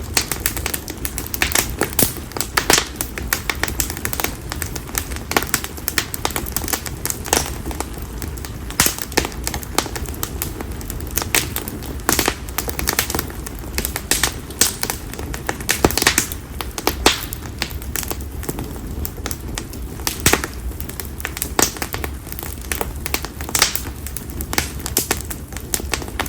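Campfire of split konara oak firewood crackling steadily, with frequent irregular sharp pops and snaps over a low rumble of the burning fire.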